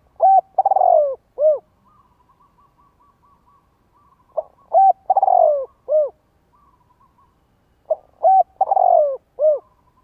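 Spotted dove cooing: three phrases about four seconds apart, each a couple of short notes, a longer falling coo and a short final note, the advertising call used as a decoy to lure wild doves. Faint rapid chirping runs between the phrases.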